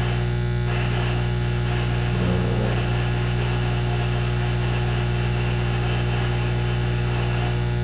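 Steady electrical mains hum, a low buzz with no change in level.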